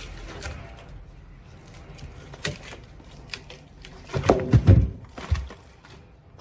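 Scattered clicks and knocks, with a cluster of heavy thuds about four seconds in and one more shortly after.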